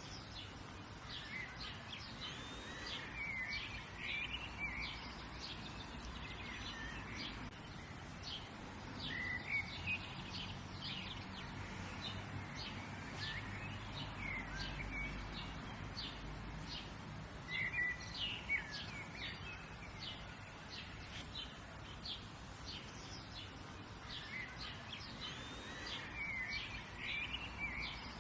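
Several birds chirping and singing over a steady background hiss. Short quick chirps run throughout, with a longer rising-and-falling song phrase every several seconds.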